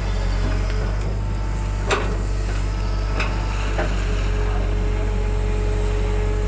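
Excavator's diesel engine running steadily, with a few sharp clanks, the loudest about two seconds in. A steady whine joins in after about four seconds.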